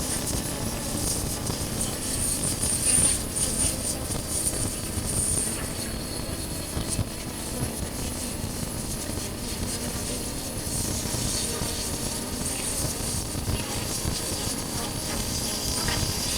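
Honda CB400X parallel-twin engine running steadily while the motorcycle is ridden, with wind buffeting the microphone.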